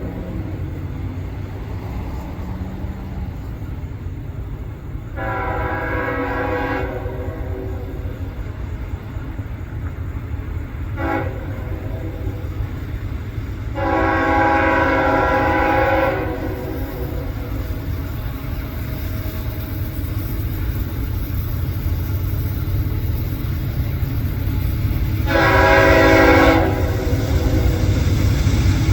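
Multi-chime air horn of a CSX GE AC44CW diesel locomotive, a Nathan K5HL, sounding for a grade crossing: long blasts about 5, 14 and 25 seconds in, a short toot near 11 seconds, and another blast beginning at the very end. Under it runs the steady low rumble of the approaching locomotives, growing louder toward the end.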